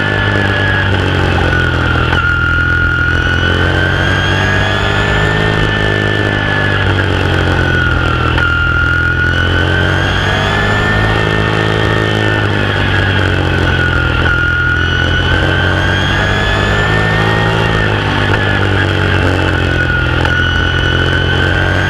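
Open-wheel modified race car's V8 engine heard from inside the car at racing speed. Its pitch sinks and climbs again in a smooth wave about every six seconds, easing off for each turn and pulling hard down each straight of the short oval.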